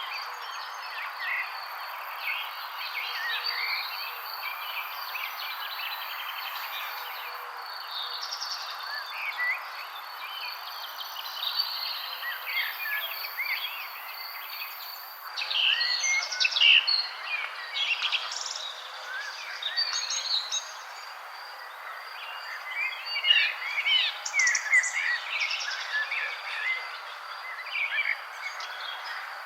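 Many birds chirping and calling at once, short quick notes and little rising and falling whistles overlapping, busier and louder about halfway through and again near the end. Under them runs a steady hiss and a faint thin high tone.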